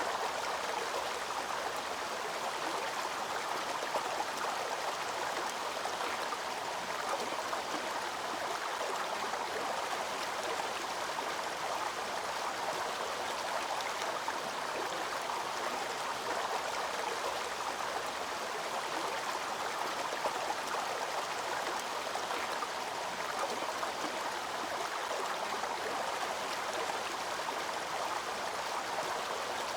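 Small waterfall's falling water rushing and splashing in a steady, unbroken wash.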